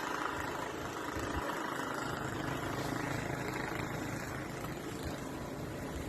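An engine running steadily, with wind buffeting the microphone now and then.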